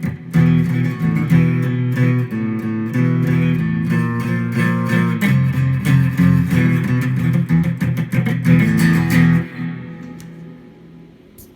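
Guitar being played with quickly repeated picked and strummed notes and chords. The playing stops about nine and a half seconds in and the last notes ring out and fade, followed by a faint click near the end.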